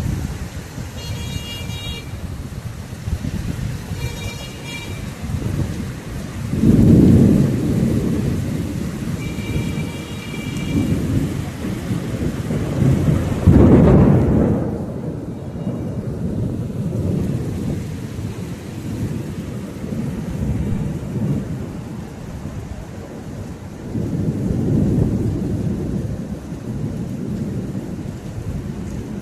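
Thunder rumbling again and again over steady rain, with loud rolls about 7 and 14 seconds in and another long roll near the end. A short high call is heard four times above the rain.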